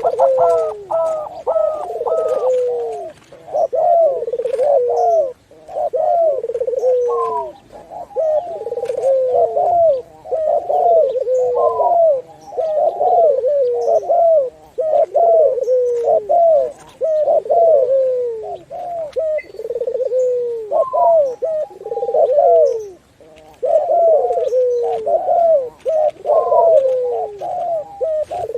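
Several doves cooing at once, a mix of zebra doves, Barbary doves and spotted doves, their low coos overlapping and repeating almost without a break.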